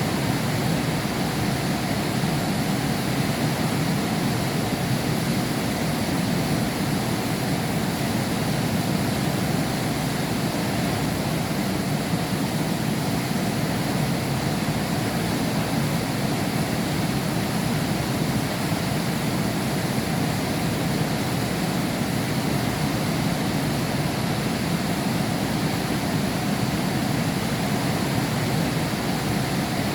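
Heavy rain heard through window glass, a steady even rush with most of its weight low down.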